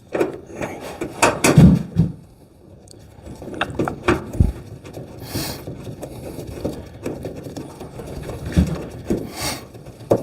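Irregular metal knocks and clunks as a car hood is handled and lowered onto its hinges, with a couple of short hisses.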